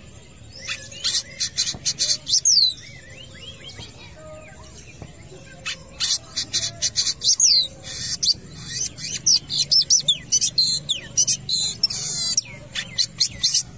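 Long-tailed shrike (cendet) singing hard: rapid volleys of sharp, scratchy chips mixed with quick down-slurred whistles. There is a short lull early on, and a dense, almost unbroken run of song from about six seconds in.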